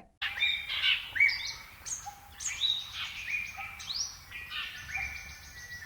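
Wild birds chirping and calling outdoors: a busy string of short, high chirps with quick pitch sweeps, several overlapping.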